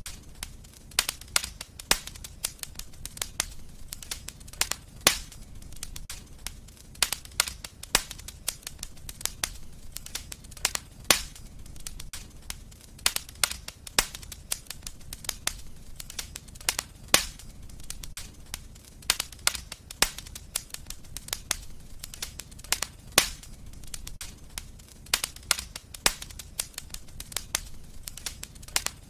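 Wood fire crackling in a fireplace: irregular sharp pops and snaps, several a second, some much louder than others, over a low steady rumble of the burning fire.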